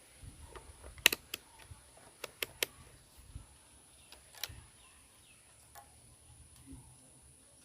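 Sharp clicks and taps from handling a DT830D multimeter's test probes against a battery: a cluster about a second in, three quick ones around two and a half seconds, and one more at about four and a half seconds, then a few faint ticks.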